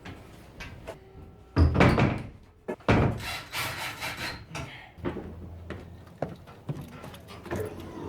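The side door of a shuttle bus being shut for the night: two loud thuds about a second apart, with wood rubbing and scraping after them and lighter knocks later on.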